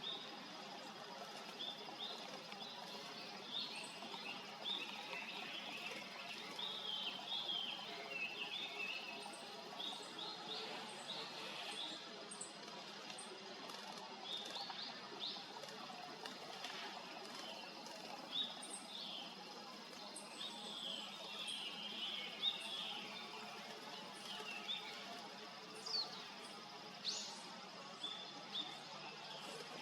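Small birds chirping and twittering, many short high calls overlapping and coming thick throughout, over steady outdoor background noise and a faint steady high tone.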